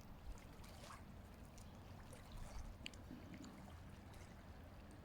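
Near silence: faint outdoor background with a low steady rumble and a few soft ticks.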